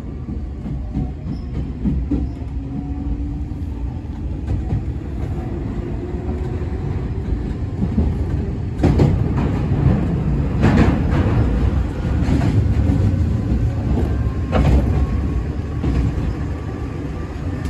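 Interior sound of a resistance-controlled Semboku/Nankai 3000 series electric train accelerating away from a station: the traction-motor tone rises steadily in pitch over a constant rumble. From about halfway through, the wheels clack over rail joints, several sharp knocks.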